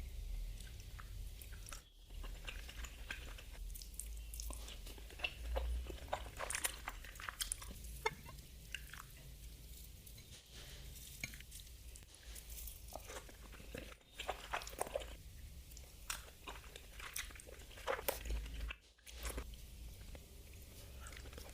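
Close-up mouth sounds of someone eating appam with fish stew: wet chewing with many small irregular crackly clicks.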